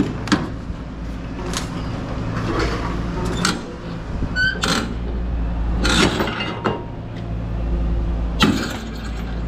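Heavy steel load chains clinking and clanking against each other and the trailer as they are handled to tie down cable reels: about seven separate metallic knocks over a steady low hum.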